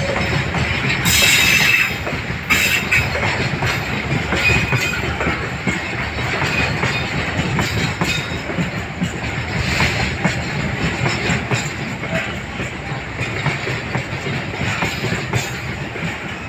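Long container freight train's wagons rolling past, a continuous rumble and clatter of wheels on rail, with brief high wheel squeals now and then and a louder stretch about a second in.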